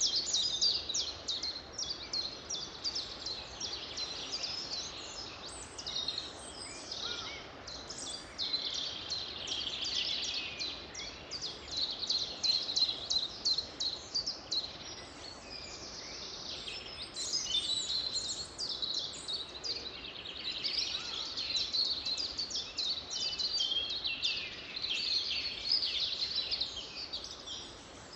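Several birds singing and chirping at once in a continuous dawn-chorus-like mix of rapid high trills and twitters, over a faint steady background hiss.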